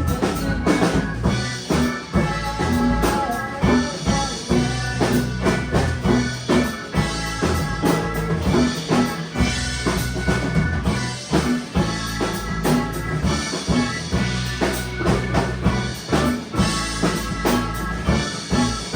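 A live rock band playing a song without vocals: drum kit keeping a steady beat under bass and other instruments.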